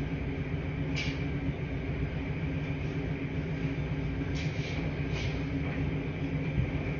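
Laundry-room ambience: washing machines running with a steady low rumble and hum. A few short, light clinks sit on top, one about a second in and three in quick succession a little past the middle.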